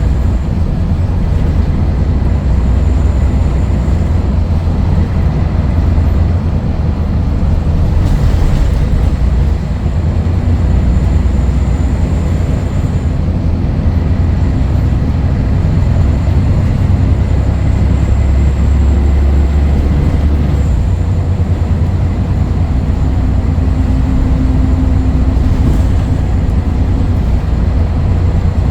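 Scania DSC11 six-cylinder diesel engine of a Scania L113CRL bus running under way, a steady low drone. The engine note dips briefly about ten seconds in and shifts again around twenty seconds in.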